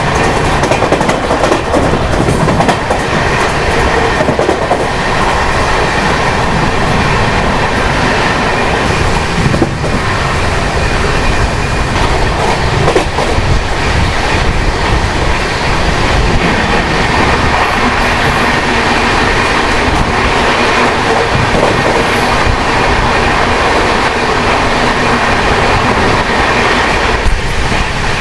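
Jan Shatabdi Express passenger train running at speed, a loud steady rumble with the clatter of wheels over the rail joints.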